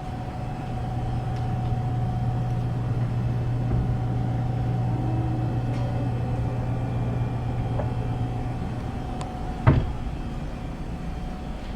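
A vehicle running steadily, with a constant low hum that drops away about nine seconds in. A single sharp knock follows just after.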